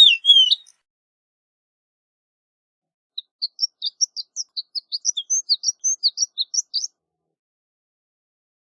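Horned lark singing: a phrase of loud down-slurred notes ends just after the start, and after a pause of a couple of seconds comes a rapid run of about twenty short, high notes, rising in pitch over roughly four seconds.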